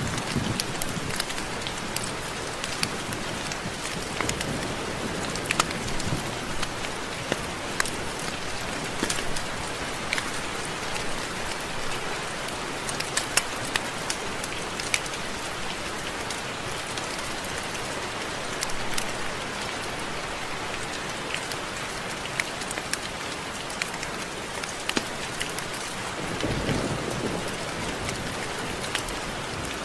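Steady rain falling, with many separate close drop ticks over an even hiss. A low rumble swells briefly near the end.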